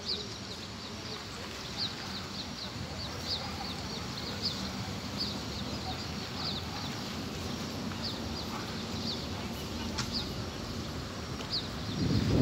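A bird chirping repeatedly, short high chirps about once a second, over steady low background noise. Near the end a loud low rumble comes in.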